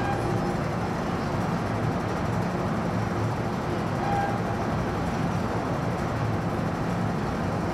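MTR Island Line M-Train electric train at the platform, a steady rumble and hum of its running gear and equipment, with a short high tone about four seconds in.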